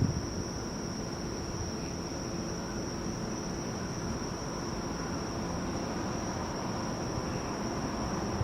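One firework boom right at the start, then a lull of steady outdoor background noise with a continuous high-pitched whine, like an insect chorus.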